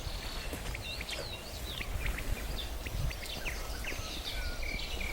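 Several wild birds singing and chirping: a busy run of short, quick chirps and whistled notes. A low rumble sits underneath.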